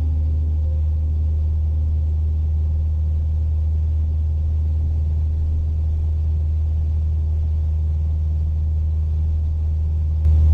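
Cessna 172N's Lycoming four-cylinder engine and propeller running steadily, a low even drone heard in the cabin. It steps up abruptly in loudness near the end.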